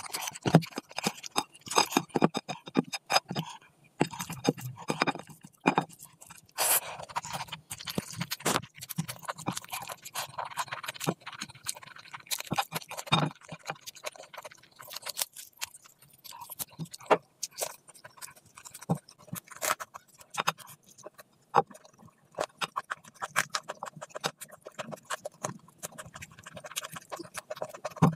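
Close-miked eating sounds: wet chewing and lip smacking, mixed with the squish and scrape of a hand working rice and curry on a plate. The sharp clicks come thick and uneven throughout.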